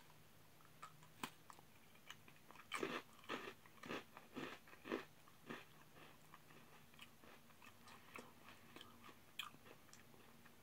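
Faint crunching and chewing of a puffy, salty Japanese cracker being eaten. The crunches are bunched together a few seconds in, then thin out to occasional small clicks as the chewing goes on.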